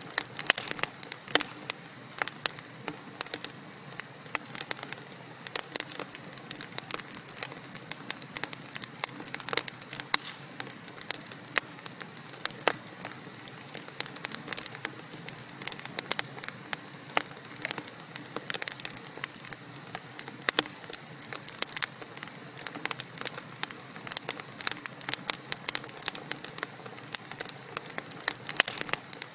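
Wood fire burning in a fireplace: a steady hiss with many irregular sharp crackles and pops from the burning logs.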